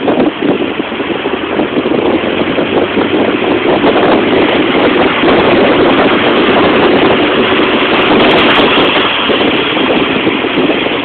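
Tiger Cat E1 kit car's engine running, loud and steady, getting a little louder about four seconds in.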